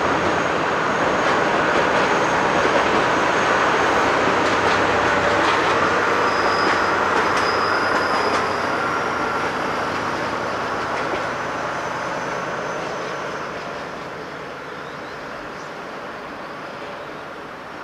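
The Okuizumo Orochi sightseeing train, a DE15 diesel locomotive hauling trolley coaches, passing: a steady rumble of engine and wheels on the rails, with a few clicks and a thin high wheel squeal between about six and eight seconds in. The sound fades through the second half as the train moves away.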